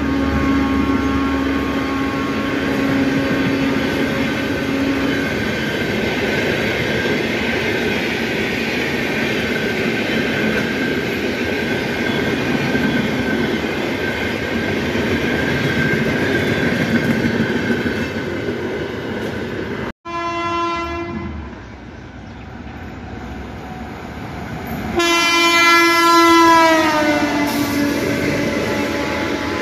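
Indian Railways passenger train running past at speed, its coaches rumbling and clattering over the rails, with the horn sounding in the first few seconds. After a sudden cut, a passing train's horn blows, faint at first and then loud, its pitch falling as the train goes by.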